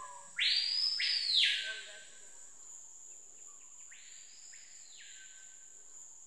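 Screaming piha giving its piercing call: one loud call about half a second in and a fainter one a few seconds later, over a steady high insect drone.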